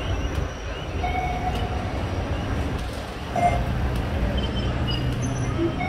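Outdoor theme-park background noise: a steady low rumble with a faint haze of distant sounds over it.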